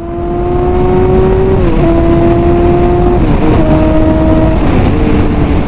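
Motorcycle engine running at high revs under acceleration, its pitch dropping three times as it shifts up through the gears.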